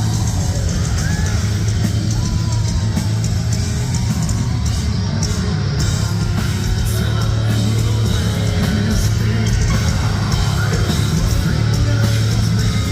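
Live heavy metal band playing loud: distorted guitars, bass and drums with shouted vocals, heard through a phone microphone in the crowd, the low end heavy and smeared.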